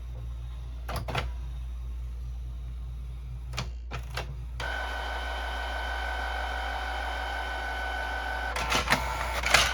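Canon all-in-one inkjet printer feeding a sheet of paper. A few separate clicks come first, then from about four and a half seconds a steady motor whine of the feed mechanism, ending in a quick run of clicks and knocks near the end. The feed goes through normally, with no jam.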